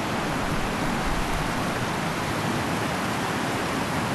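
Fast-flowing mountain river rushing, a steady even wash of water noise.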